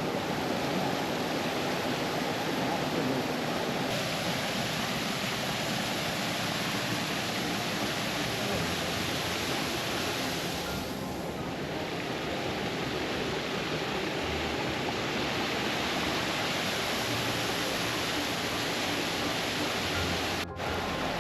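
Steady rushing of a stream tumbling over small waterfalls and rocks, with a brief cut near the end.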